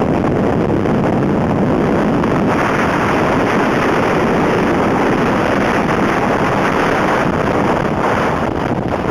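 Blizzard wind buffeting the microphone in a steady, loud rush, getting a little stronger a few seconds in.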